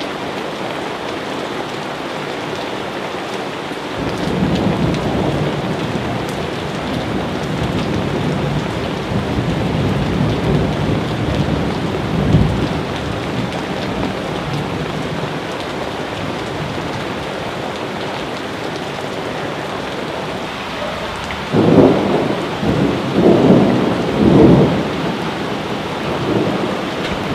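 Steady heavy rain with thunder: a long low rumble rolls in about four seconds in and fades over the next ten seconds, and a louder peal of several cracks and rumbles comes about three quarters of the way through.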